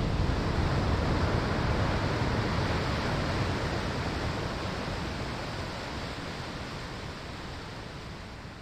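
Ocean surf washing up a sandy beach, a broad hiss of breaking and foaming water that slowly fades as the wave runs out.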